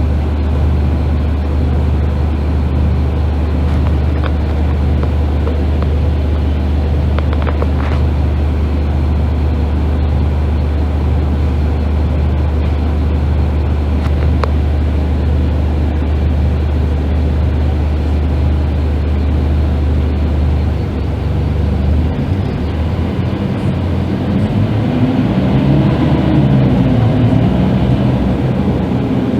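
Scania K310IB bus's nine-litre five-cylinder diesel engine running with a steady low drone. About two-thirds of the way in the drone breaks up, and near the end a higher engine note builds and climbs.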